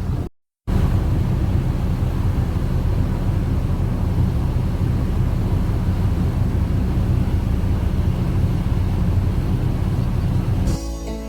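Steady low engine rumble aboard a passenger ship. It cuts out for a moment just after the start, and music begins near the end.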